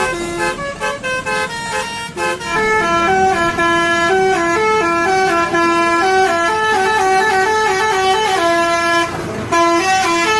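Telolet basuri multi-tone bus horn playing a melody: a quick run of short clipped notes, then a longer tune of held notes stepping up and down in pitch.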